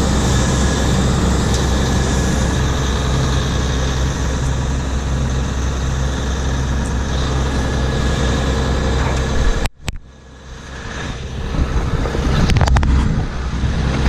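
John Deere 7720 combine running steadily, its engine and machinery making a constant drone with a low engine hum. About two-thirds of the way through the sound cuts off abruptly, and quieter vehicle noise builds back up.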